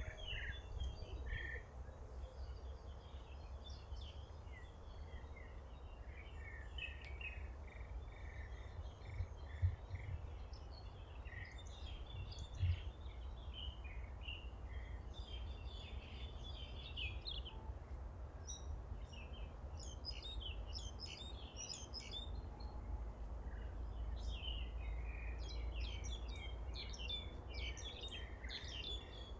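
Birds chirping and calling in many short notes, thickest in the second half, over a steady low rumble. Two brief low thumps sound about ten and thirteen seconds in.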